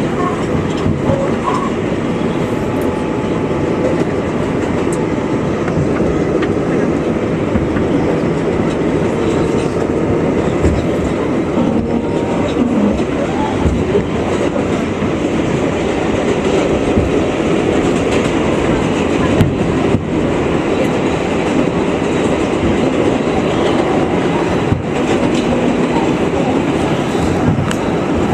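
New York City subway 7 express train in motion, heard from inside the car: a steady rumble of wheels on rail, with scattered clicks from rail joints.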